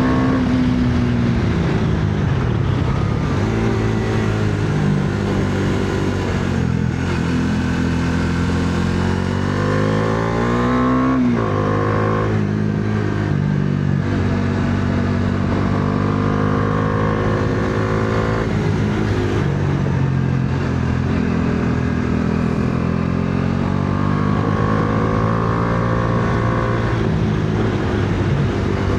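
Bajaj Dominar 400's single-cylinder engine under hard riding, its pitch climbing and falling as the throttle is worked through the curves. One long climb about eleven seconds in ends with a sharp drop in pitch, with a steady rush of noise underneath throughout.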